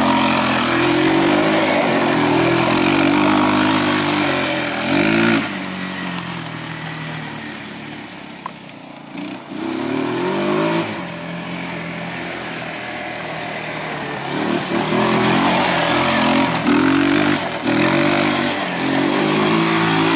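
A small vehicle's engine running under load at speed, its pitch rising and falling; it eases off for several seconds in the middle, then picks up again, with a rushing hiss over it.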